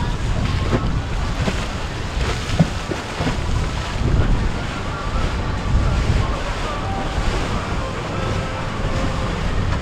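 Wind buffeting the microphone over the wash of waves, with faint boat engines passing.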